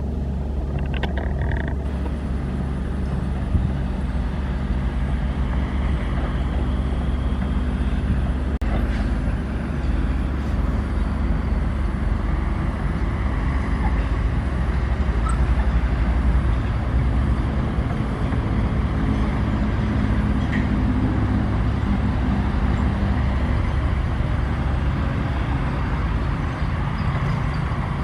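Diesel engine of a Sany SY135F excavator running steadily with a low hum while it digs and loads soil, its pitch shifting a little as the load changes.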